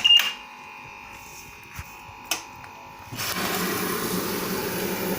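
LG WD-80155NUP front-loading washing machine starting a Synthetics cycle: a control-panel beep at the start and a couple of clicks, then about three seconds in water starts rushing in through the inlet valve with a steady hiss and a low hum.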